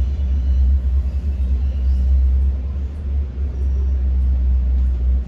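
GO Transit commuter train running along the track, a steady low rumble of wheels on rails.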